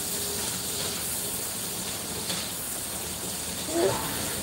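Asparagus spears sizzling in a hot skillet as they are turned, a steady hiss. A brief voice sound comes near the end.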